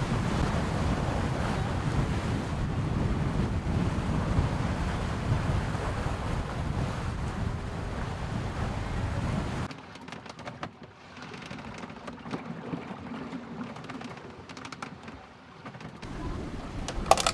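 Strong wind buffeting the microphone over rushing waves aboard a sailing catamaran in about 18 knots of wind. About ten seconds in, it cuts abruptly to a quieter stretch with a faint low hum and scattered clicks, and a short sharp knock comes near the end.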